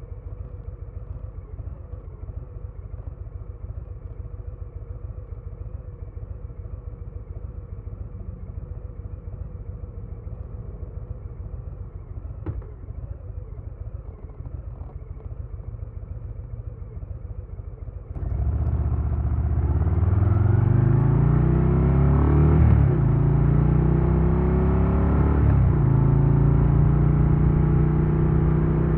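2022 Harley-Davidson Low Rider S's Milwaukee-Eight 117 V-twin idling with a steady low pulse, then pulling away about eighteen seconds in. It accelerates with rising pitch, upshifts twice, and settles into steady running.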